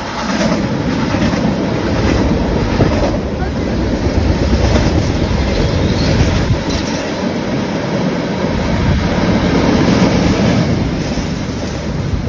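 Freight train rolling past, a steady heavy rumble of steel wheels on rail with occasional clacks.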